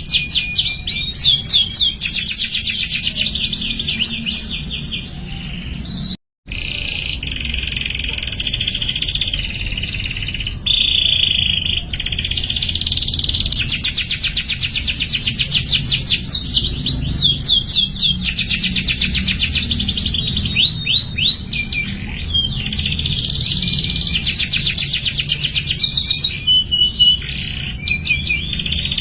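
Canary singing a long, high-pitched song of fast rolling trills and rapid repeated chirps. The song cuts out for an instant about six seconds in.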